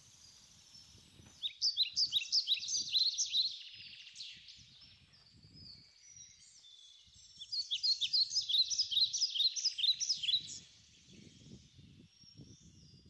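A small songbird singing two fast twittering phrases of rapid high chirps, the first starting about a second and a half in and the second, longer one about seven seconds in. Faint soft knocks sound underneath throughout.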